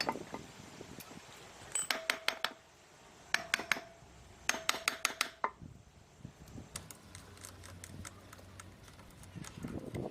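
Metal tools and engine parts clinking: three short bursts of rapid metallic clicks with a faint ringing note, about two, three and a half and five seconds in, then scattered lighter clicks.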